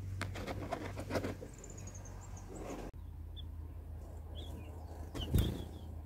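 Light rustling and clicking, with a quick falling run of thin, high bird notes about a second and a half in. Later come a few short chirps from small birds and a single thump near the end.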